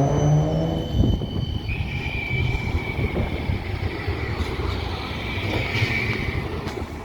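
A tram passing with a steady low rumble and a knock about a second in; from about two seconds in a high-pitched whine or squeal rises over it and slowly falls in pitch, fading near the end.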